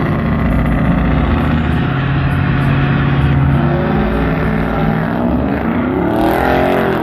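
Lowered pickup truck's engine running hard while doing donuts. Near the end it revs up and falls back again.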